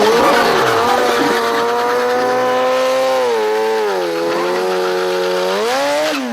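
Drag-racing motorcycle engine held at high revs with a steady pitch. The revs ease down slightly midway and pick up again near the end.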